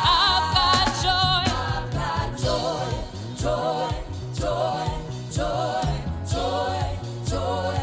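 Live gospel worship music: singers and choir with vibrato over a band with bass and drums.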